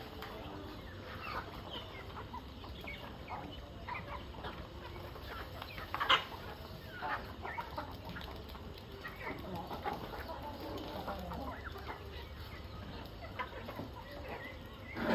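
Chickens clucking, many short calls overlapping as the flock is fed, with one louder sharp call about six seconds in.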